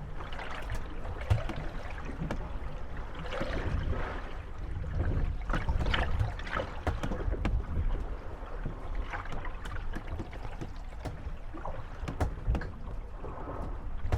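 Moored gondolas rocking on choppy water, their hulls creaking and knocking against each other with scattered short knocks and water slapping, over a steady low rumble.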